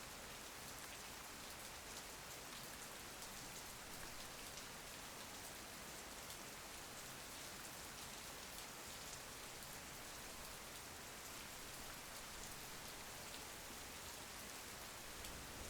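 Steady rain falling: an even hiss of rain with a fine patter of individual drops.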